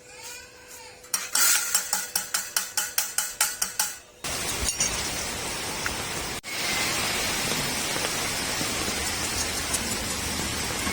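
About a dozen quick strikes on metal, roughly four a second, then from about four seconds in the steady crackling hiss of arc welding, which breaks off for an instant and picks up again.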